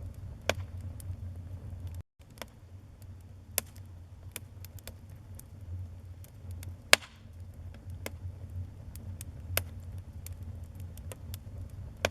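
Wood fire crackling in a fireplace: a steady low rumble of flames under irregular sharp pops and snaps, the loudest pop about seven seconds in. The sound cuts out for a moment about two seconds in.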